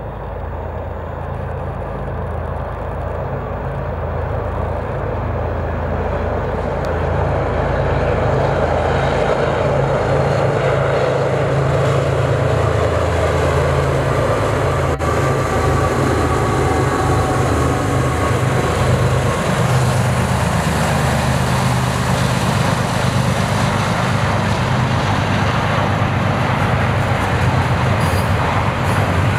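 Union Pacific diesel freight locomotive approaching and passing at speed with its engine running, followed by the steady noise of double-stack container cars' wheels rolling on the rails. The sound builds over the first eight seconds or so, then holds steady.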